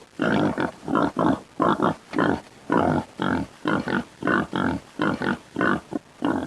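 Pig grunting in a quick series of short calls, about two a second.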